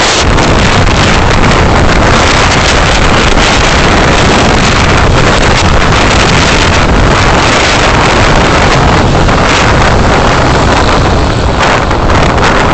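Dashcam audio of a vehicle on the move: loud, steady rumble of wind buffeting the microphone mixed with road and engine noise.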